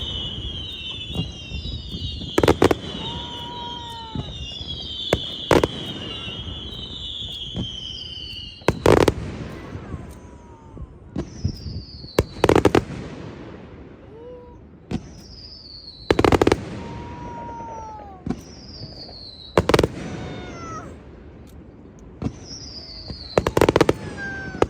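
Fireworks display: aerial shells bursting with sharp bangs about every three to four seconds. Between the bangs come many whistles falling in pitch, thickest in the first third.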